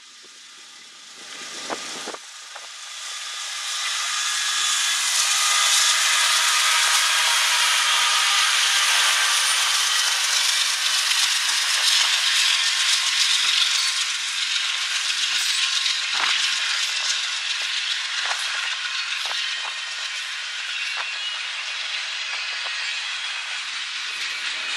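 Norfolk Southern diesel-hauled freight train passing close by: loud rushing of steel wheels on rail, with steady high squealing tones and scattered clacks, swelling over the first few seconds and easing a little in the last part.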